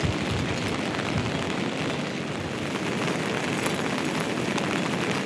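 Heavy monsoon rain falling, a steady, even hiss with a low rumble underneath.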